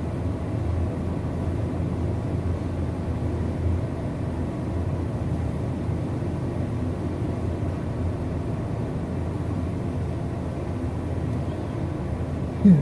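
Automatic car wash's track-mounted blower dryer running steadily. Near the end comes a single short, low, falling tone.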